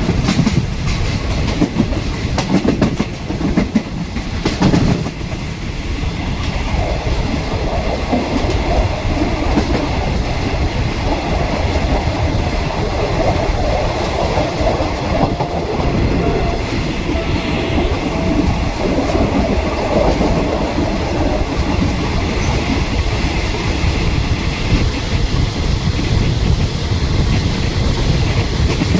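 A passenger train running at speed, heard from on board: a steady rumble of wheels on rail, with rhythmic clacks in the first few seconds and a faint steady whine through the middle.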